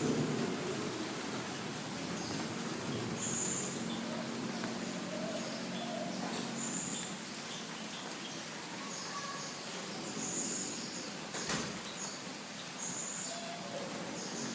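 Garden birds chirping in short high calls every few seconds over a steady hiss, while the low rumble of thunder dies away at the start. One sharp click comes near the end.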